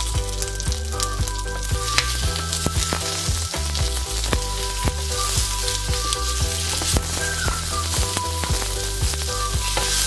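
Cherry tomatoes, ginger, garlic and cumin seeds sizzling in hot oil in a nonstick frying pan, with many small spattering pops. About halfway through, a wooden spatula starts stirring them.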